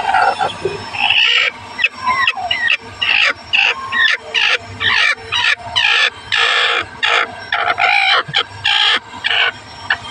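Hen calling over and over, loud short calls at about two a second, starting about a second in and stopping just before the end.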